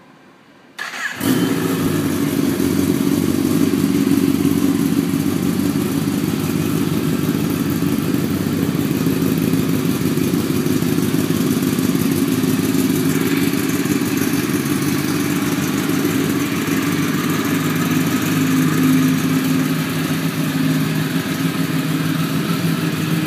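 2011 Kawasaki ZX-10R's inline-four engine with a Yoshimura R77 exhaust starting: the starter turns it over briefly about a second in, it catches, and then it runs at a steady idle.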